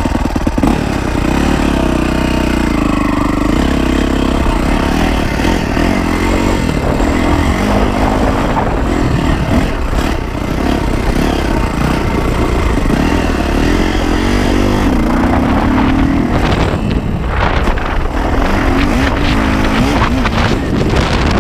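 Four-stroke dirt bike engine ridden hard through a jump section, its pitch rising and falling with the throttle, with short dips about ten seconds in and again around sixteen seconds.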